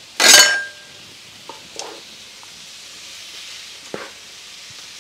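Boiled couscous tipped into a hot wok of frying vegetables: a loud burst of sizzling just after the start, lasting about half a second, then a steady faint sizzle with a few light clicks.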